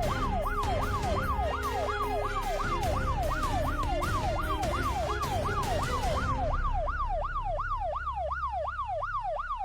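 Police siren in a fast yelp, its pitch sweeping up and down three to four times a second over a low vehicle rumble. Background music under it fades out about six seconds in.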